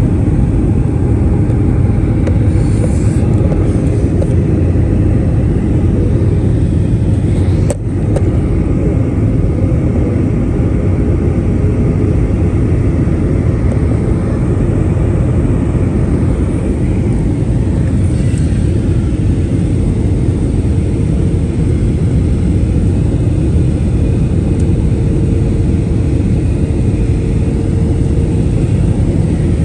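Airbus A319 cabin noise on descent: a steady low rumble of engines and airflow with a faint steady hum above it. There is a brief click with a momentary drop in level about eight seconds in.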